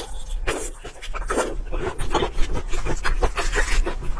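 Close-miked eating sounds: quick, wet chewing and mouth smacks, with many short clicks and bursts in rapid succession.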